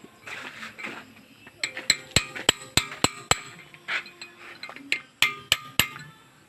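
Hammer blows on steel, each strike ringing. A quick run of about seven strikes, three or four a second, starts a second and a half in, and three more come near the end.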